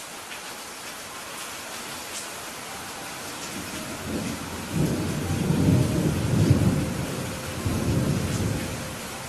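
Steady rain falling, with a low roll of thunder that builds about four seconds in, rumbles for several seconds and dies away near the end.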